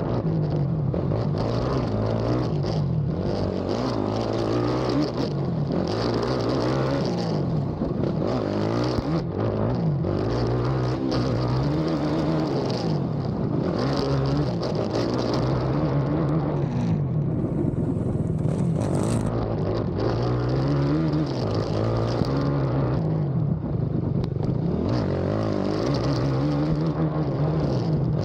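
Race ATV's engine heard from on board, revving up and dropping back again and again as the quad is ridden hard over rough cross-country terrain.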